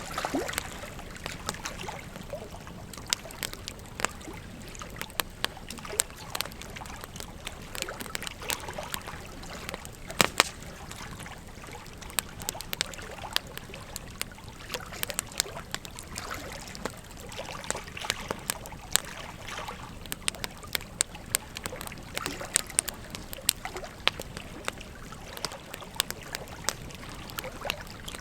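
Wood fire crackling, with frequent sharp pops at irregular intervals, over the steady rush of a river.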